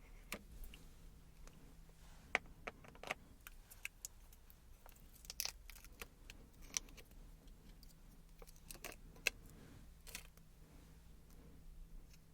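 Small plastic gouache paint pots being handled: irregular sharp clicks and knocks of plastic against plastic, a few of them louder.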